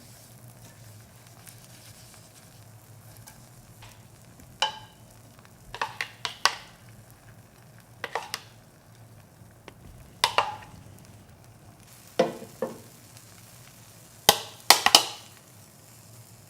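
A cooking utensil knocking and scraping against a frying pan in short clusters of sharp taps as an egg roll is pressed and pushed, over faint sizzling of the egg cooking on low heat.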